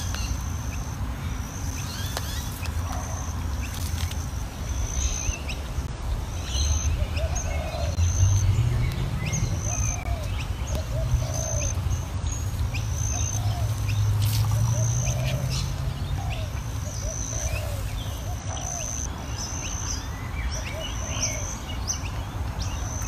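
Birds chirping repeatedly in short calls over a low outdoor rumble, which swells in the middle.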